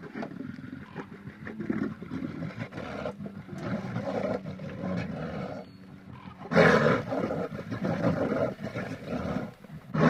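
A large animal roaring and growling in rough, continuous bouts, with a louder roar starting about two thirds of the way in.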